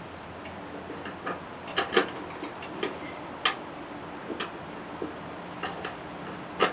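Irregular sharp clicks and light knocks of tools and metal parts being handled while a riding mower's deck is put back together, about eight in all, from about two seconds in.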